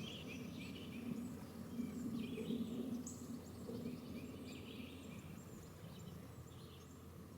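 Birds chirping and calling in short bursts, with a high whistle about three seconds in, over a low outdoor hum that fades toward the end.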